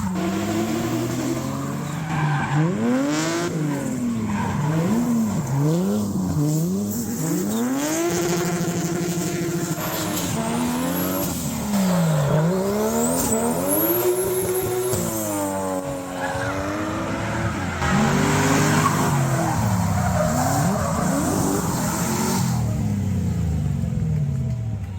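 Drift cars' engines revving hard, the pitch rising and falling again and again as they are thrown sideways, with tyres squealing and skidding.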